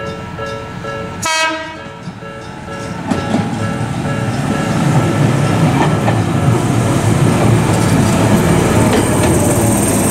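A railway level-crossing warning bell ringing in steady pulses, cut across about a second in by a short train horn blast. Then an electric train of the Jōmō Electric Railway pulls into the station, its wheel and motor rumble growing louder.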